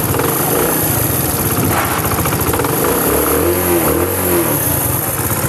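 Honda CD70's single-cylinder four-stroke engine running at a fast idle, freshly rebuilt with a new timing-chain guide and sounding clean and even. About three seconds in the revs briefly rise and fall.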